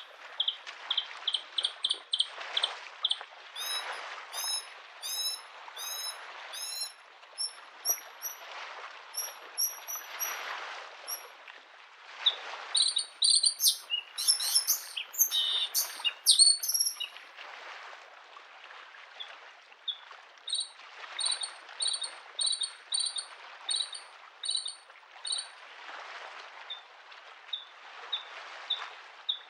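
Bluethroat singing: strings of short, rapidly repeated high notes and chirps, with a dense, loudest burst of song about halfway through. Underneath, lake waves wash on the shore in a rhythmic rise and fall every few seconds.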